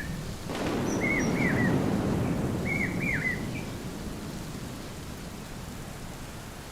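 Thunder rumbling in about half a second in, loudest around two seconds and slowly dying away, over steady monsoon rain. A bird gives two pairs of short down-slurred calls during the thunder.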